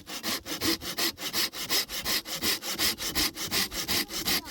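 Hand saw cutting through wood: quick, even back-and-forth strokes, about five a second.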